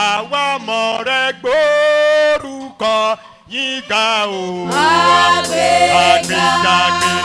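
A man singing a worship chant in short phrases and long held notes, over a steady held low note.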